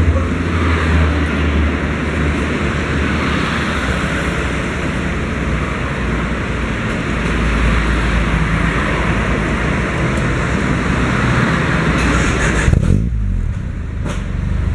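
Exhaust note of a Honda Civic's D15B 1.5-litre four-cylinder engine through an Aurora Thunder Attack rear muffler, running steadily with a low drone and a raspy hiss above it. Near the end the hiss drops away and the low drone carries on.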